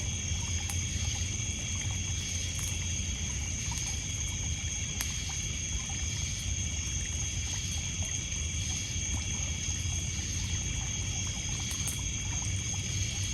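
Night ambience at a wood campfire: a steady high chorus of crickets and other insects over a low steady rush, with a few sharp crackles from the burning wood, about one every several seconds.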